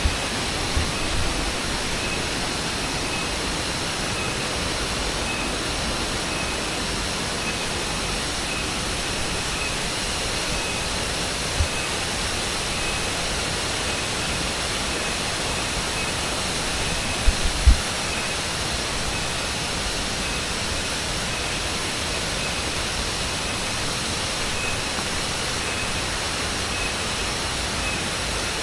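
Waterfall: many streams of water pouring down a cliff into a pool, a steady rushing hiss. A faint high chirp repeats throughout, and there are a few soft low thumps about twelve and seventeen seconds in.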